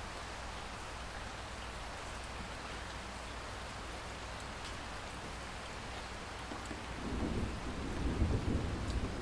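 Steady rain falling, with a low rumble of thunder building about seven seconds in.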